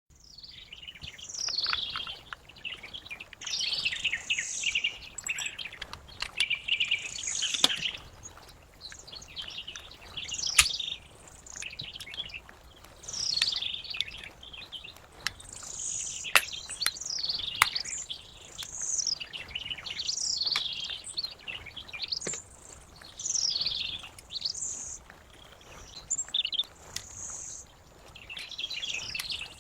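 Birds chirping and singing continuously in many short, quick sweeping calls, with a few sharp clicks in between.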